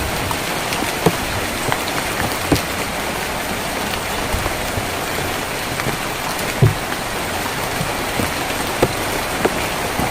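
Steady rain on a tin roof: an even hiss of rainfall with scattered heavier drops striking sharply every second or two, one louder strike about two-thirds of the way through.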